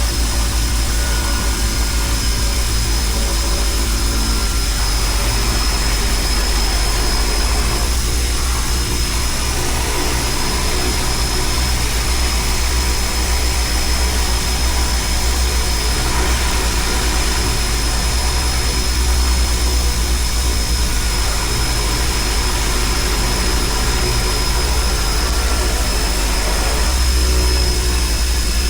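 Seaplane's propeller engines running in a steady drone, with a deep rumble and a thin, constant high whine above it.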